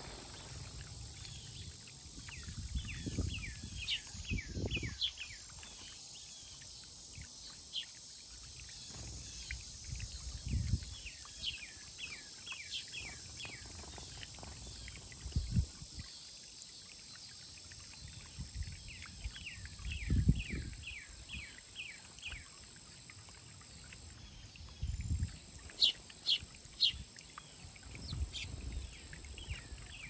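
Small songbirds calling: runs of short, high, downward-sweeping chirps, about three a second, several times over. Low dull thumps or rumbles come in now and then underneath.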